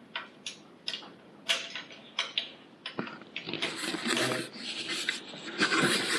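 Clicks and knocks from hand-turning and adjusting a vintage Lister Petter stationary engine while setting its spark timing: a run of separate sharp clicks, then from about halfway a denser stretch of scraping and rustling.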